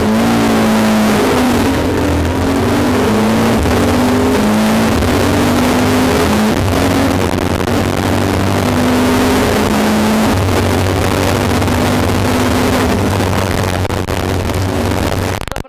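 Rally car's engine heard inside the cabin under hard acceleration, its note climbing and dropping back again and again as the driver works through the gears along the stage.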